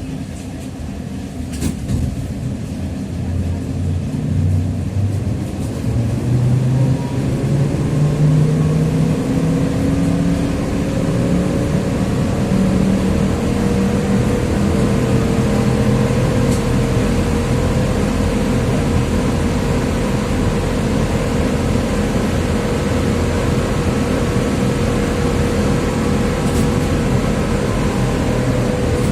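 TrolZa-5275.05 'Optima' trolleybus under way, with the gear whine of its Ishimbay rear axle and its DK-213A traction motor. The whine rises in pitch and grows louder as the trolleybus picks up speed, then holds one steady pitch at cruising speed. A click comes about two seconds in.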